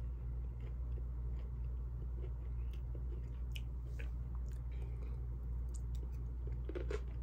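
A person chewing a mouthful of beef and broccoli, with short wet clicks and crackles of the mouth that come more often in the second half, over a steady low hum.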